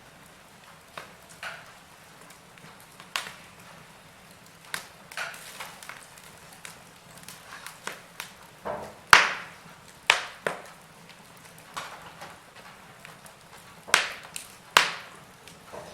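Wood fire crackling, with irregular sharp pops and snaps over a low steady background; the loudest snap comes about nine seconds in.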